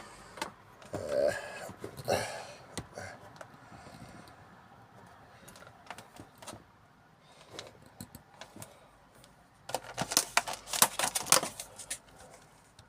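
Plastic tarantula enclosures being handled: scattered light clicks and knocks, with a quick run of louder clicking and rattling about ten seconds in.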